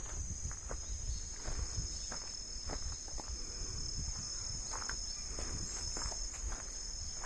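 Insects trilling steadily at a high pitch, with irregular light crunching steps throughout.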